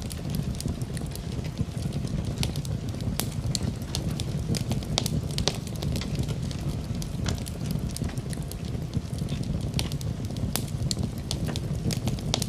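Wood fire crackling in a fireplace: a steady low rumble of burning with frequent irregular sharp pops and snaps.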